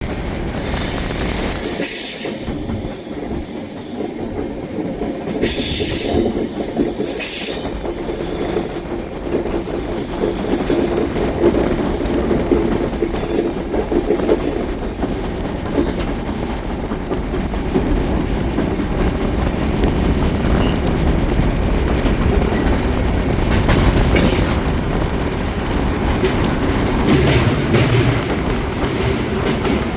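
Kerala Express passenger train running on the rails with a steady rumble and the clatter of wheels over the track. High-pitched wheel squeal comes in the first couple of seconds and again a few seconds later.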